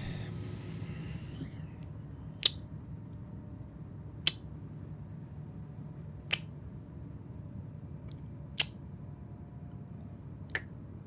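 Steady low rumble of a moving train's interior, with a short, sharp click about every two seconds.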